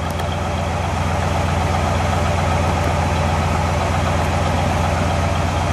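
1958 Dodge Regal Lancer's 350 cubic-inch Chrysler big-block V8, four-barrel carbureted, idling steadily in neutral, heard at the tailpipe.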